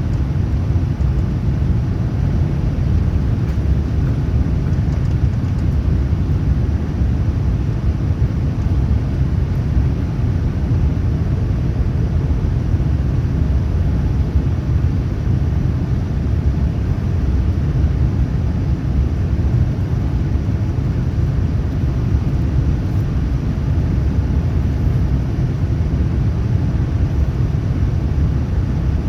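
Cabin noise inside a Boeing 787-9 Dreamliner with Rolls-Royce Trent 1000 engines, in flight: a steady, even low rumble.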